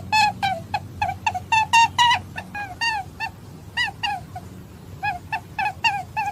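Rabbit calling: a rapid series of short, high-pitched squeaks, about three a second, each note bending in pitch, with a couple of brief sparser stretches.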